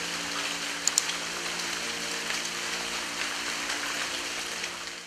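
Heavy, steady rain falling on a tiled roof, with a low steady hum underneath. Two sharp ticks, close together, about a second in.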